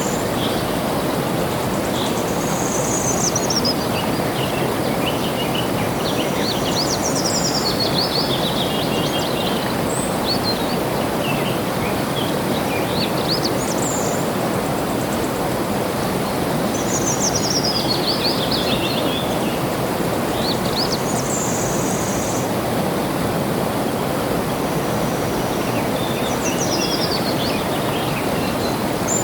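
Water flowing steadily, with songbirds singing over it: high chirpy phrases, several sliding downward, come every few seconds.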